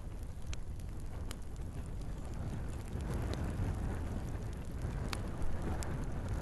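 Log fire burning in a fireplace: a steady low rush of flames with a handful of sharp crackles and pops from the burning wood, the flame noise swelling a little about halfway through.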